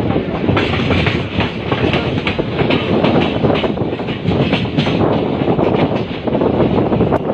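Passenger train running on the rails: a loud, steady rumble with the wheels clattering over the track in quick, irregular clicks.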